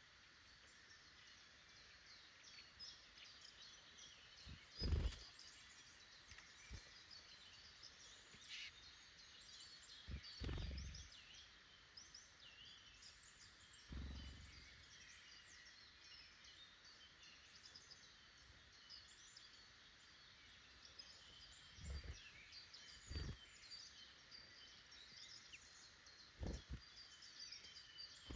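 Faint woodland birdsong: many small songbirds chirping and twittering in overlapping short calls over a soft steady hiss. About six short low thumps break in at irregular times, the loudest about five seconds in.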